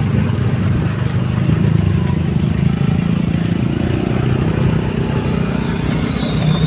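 Motor scooter, a TVS Ntorq, running steadily on the move, its engine hum mixed with low wind rumble on the microphone.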